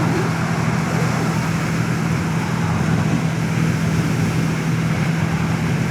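Motorcycle engine running at a steady, unchanging pitch, with a constant hiss over it.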